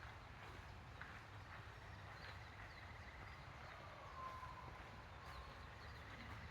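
Faint wild birds calling over a low steady outdoor rumble. A long thin trill runs through the middle, a clear whistle comes about four seconds in, and there are a few short high chirps.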